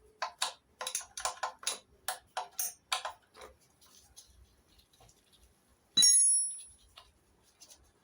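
Metal hand tools at work on the engine: a quick run of sharp clicks for about three and a half seconds, then about six seconds in a single loud metallic clang that rings briefly.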